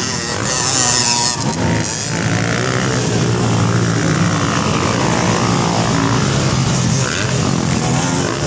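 Motocross dirt bike engines revving hard, their pitch rising and falling.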